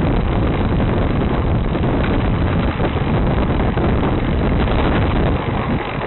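Loud, steady wind buffeting the camera microphone and the rumble of a moving bike, as a mountain bike is ridden along; it eases slightly near the end.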